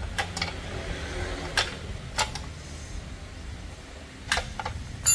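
Scattered sharp metal clicks and knocks, about eight, from hand tools and parts being handled while taking motorcycle parts off; the loudest comes near the end and rings briefly. A low steady hum runs underneath.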